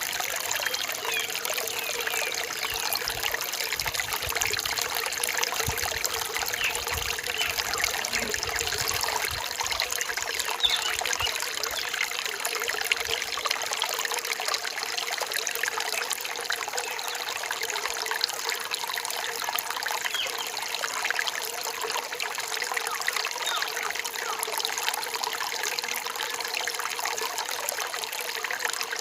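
Small stream trickling and splashing steadily.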